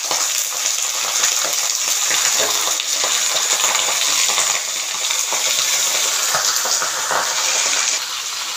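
Raw chicken pieces going into a kadhai of hot oil and water with onions and whole spices, which sizzles and bubbles loudly and steadily. Scattered clicks and knocks sound as pieces and the spoon hit the pan.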